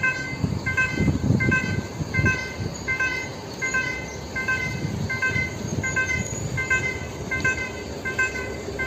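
Level crossing electronic warning signal ringing steadily, a short multi-tone chime about every 0.7 seconds, while a train approaches. A low rumble swells beneath it in the first few seconds.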